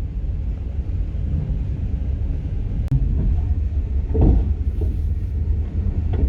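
Passenger train rolling along the track, heard from inside the carriage: a steady low rumble with the clack of the wheels over rail joints, the loudest knock about four seconds in and another near the end.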